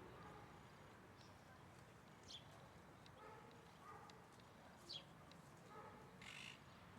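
Faint wild bird calls over a quiet outdoor hiss: a couple of short, high falling chirps and a few lower, harsher calls, scattered a second or two apart.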